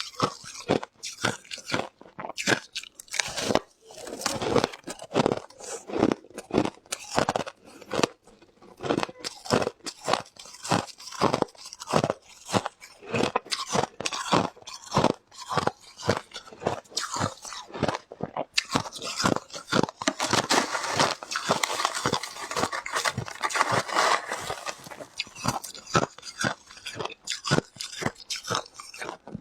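Close-miked crunching of ice being bitten and chewed, many sharp crunches in quick succession, with a stretch of denser, grinding chewing past the middle.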